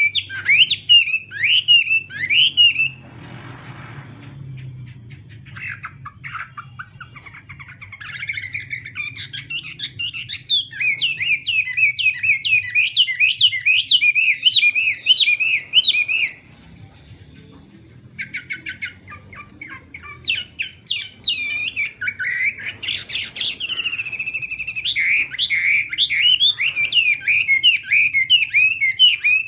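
Chinese hwamei singing a loud, varied song of fast runs of repeated, sliding whistled notes. The song drops to softer phrases a few seconds in, pauses briefly past halfway, then resumes with a rattling series before the fast runs return. A faint low hum lies underneath.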